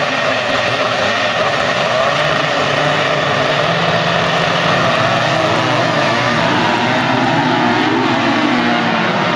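Several vintage motocross motorcycles racing together, their engines revving and overlapping, with the pitch rising and falling as riders open and close the throttle.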